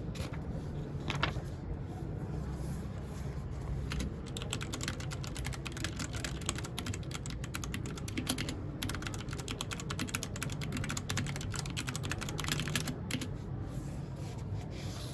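Mechanical keyboard typing: a few scattered keystrokes, then rapid continuous clacking from about four seconds in that thins out near the end.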